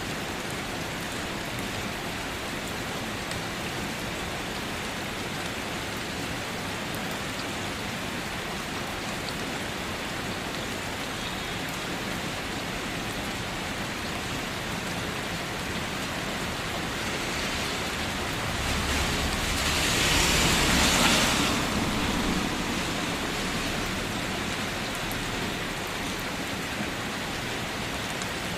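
Steady rain falling. About two-thirds of the way through it swells into a louder rush with a low rumble for a few seconds, then eases back.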